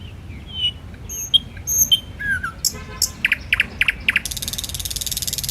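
Birds chirping and calling in short whistled notes. About four seconds in, a rapid, high buzzing trill starts and runs until just before the end.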